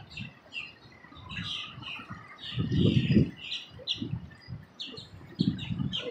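Birds chirping rapidly in short high notes, several a second, over low gusty rumbling like wind buffeting the microphone, loudest about three seconds in.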